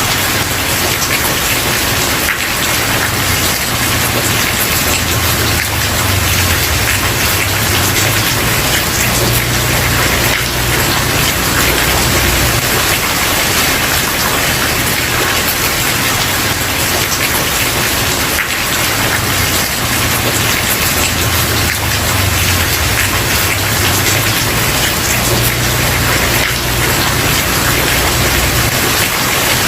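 Steady rain falling and pattering on a wooden porch, with a low rumble underneath that swells and eases slowly.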